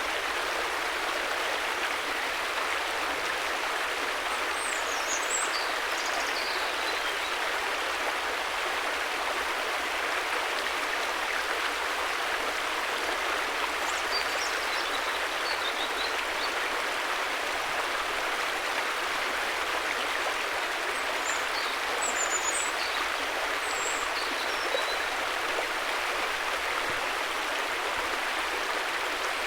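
River water flowing in a steady, even rush, with a few faint high chirps now and then.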